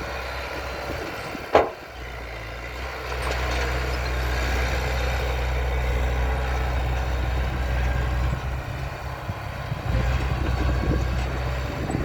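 Heavy diesel engine of a dump truck or bulldozer running with a steady low drone that grows louder about three seconds in. A single sharp bang about a second and a half in is the loudest sound.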